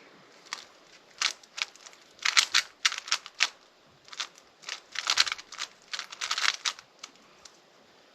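A 3x3 speedcube being turned by hand: quick runs of plastic clacking layer turns with short pauses between them.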